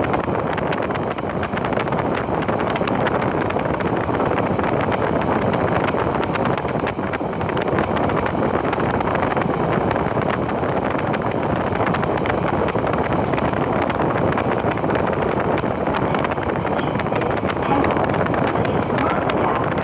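Passenger train running steadily, heard from inside the carriage: a constant rumble and hiss of wheels on the track with many faint rattling clicks.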